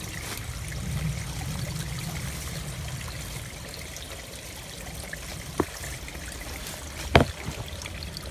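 Shallow creek water trickling steadily, with two sharp knocks, one about five and a half seconds in and a louder one about a second and a half later.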